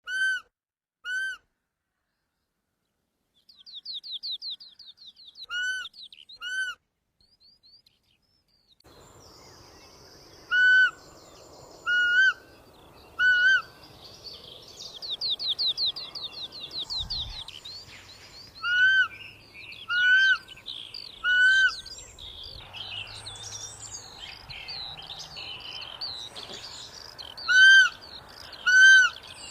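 Roe deer giving short, high calls that rise and fall in pitch, in groups of two or three about a second apart. Birds trill and sing in the background, with outdoor ambient noise joining after a few seconds.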